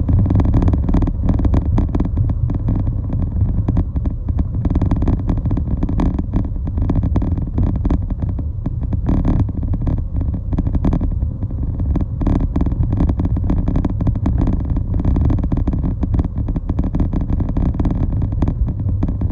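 Moving vehicle on a city road: a steady low rumble with many short clattering knocks mixed in.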